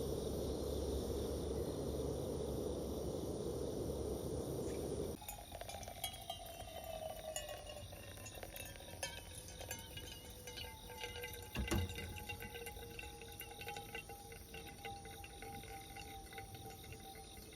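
A rush of liquid, like water pouring or boiling, for about five seconds that stops abruptly, followed by a faint tone that slowly falls in pitch and a single knock about twelve seconds in.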